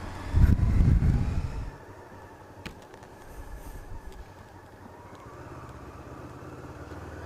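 Motorcycle engine running. It is loud for about the first second and a half, then drops abruptly to a quieter, steady low rumble, with a single click near the middle.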